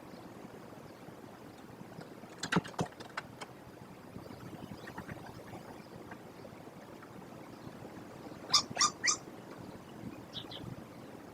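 American kestrels calling in the nest box: three short harsh calls in quick succession, then two fainter, higher calls. Earlier, a quick cluster of knocks.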